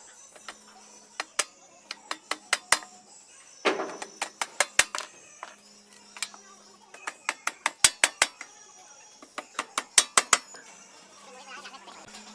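Sharp metal-on-metal taps and clinks in quick runs of several strokes with short pauses between, over a faint steady hum.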